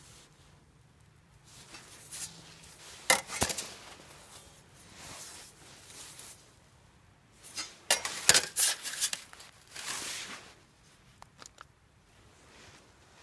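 Camp gear being handled and packed away: sharp metal clinks and knocks in two clusters, about three seconds in and about eight to nine seconds in, between rustling.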